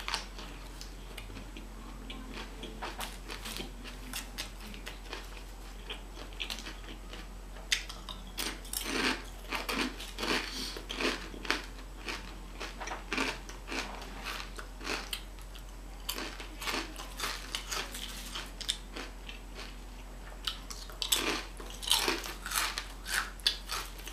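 Mouth sounds of biting and chewing a sub sandwich, with many short crisp crunches that come in clusters, thickest in the middle and near the end.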